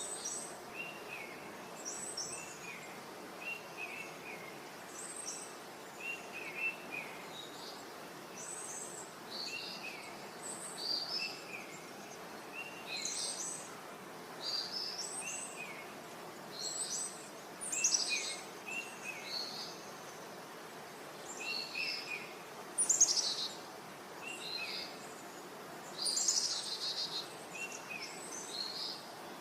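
Birds chirping and singing in short, repeated calls over a steady background hiss. There are two kinds of call: lower, short falling notes and higher, quicker phrases, some of them louder bursts.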